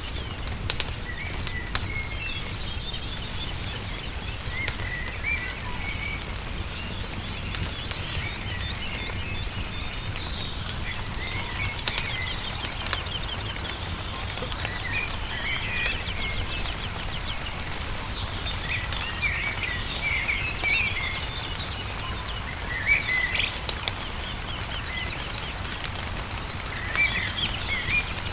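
Songbirds chirping and trilling continuously, over the scattered sharp pops and crackles of a burning wood fire and a steady low rumble.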